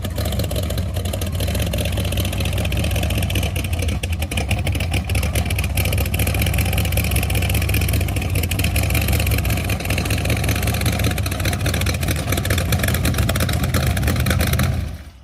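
A car engine running steadily at a fairly even speed, mostly a low steady rumble with a fast pulsing texture. It stops abruptly near the end.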